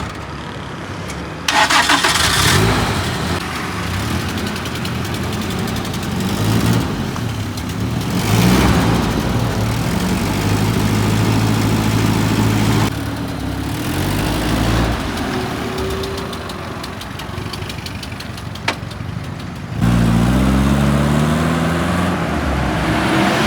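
A motor vehicle's engine runs and pulls away. Its pitch rises as it accelerates, around eight seconds in and again near the end.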